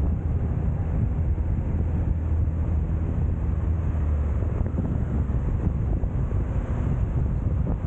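Kawasaki Z650 parallel-twin motorcycle engine running steadily while riding, with wind buffeting the microphone.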